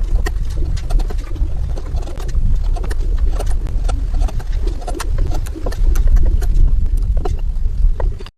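Hand tools working wood: irregular light taps and knocks over a steady low rumble.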